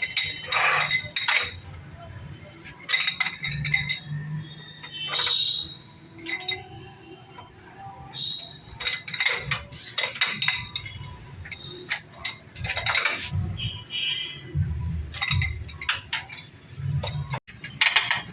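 Steel hand tools and bolts clinking and knocking against metal at irregular intervals, with short metallic rings, as bolts are undone to lower a gearbox.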